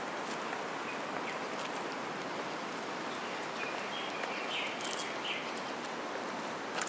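Steady outdoor background noise with a few short bird chirps about three to five seconds in, and a couple of sharp clicks, one near the end.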